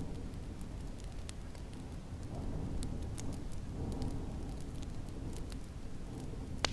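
Wood fire crackling with scattered sharp pops, one louder pop near the end, over a low, swelling rush of snowstorm wind.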